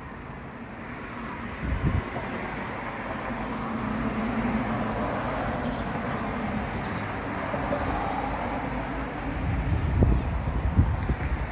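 Strong wind rushing steadily and swelling, with low buffeting gusts on the microphone about two seconds in and again near the end.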